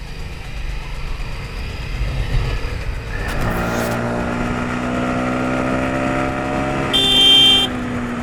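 Riding in road traffic: low wind and engine rumble, then from about three seconds in a steady pitched tone from a vehicle. Near the end comes a short, loud, high-pitched beep like a horn, the loudest sound here.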